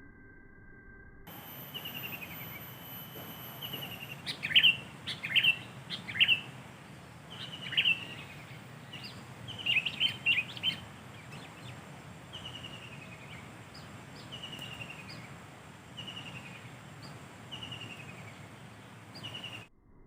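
Sooty-headed bulbuls (kutilang) calling: loud clusters of sharp chirps between about four and eleven seconds in, and a short falling whistle repeated every second and a half or so.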